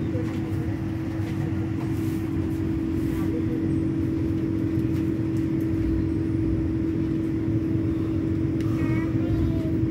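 Inside a Vande Bharat electric train coach rolling slowly into a station: a steady low rumble with one constant hum of even pitch running over it.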